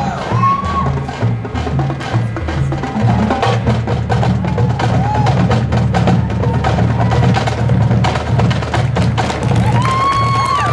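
Marching band playing swing-style big-band music: a walking low-brass bass line under a steady percussion beat, with the horns swelling into a long held chord near the end.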